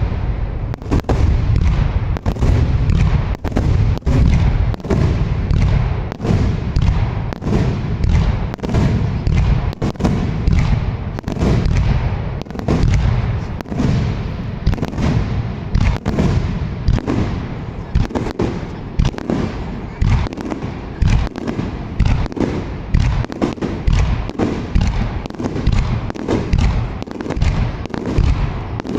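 Fireworks display in a dense, continuous barrage: many shell bursts in quick succession, their booms overlapping with a deep low rumble.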